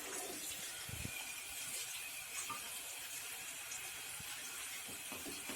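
Seafood and vegetables frying in a large paella pan: a steady, quiet sizzle, with a couple of soft knocks about a second in.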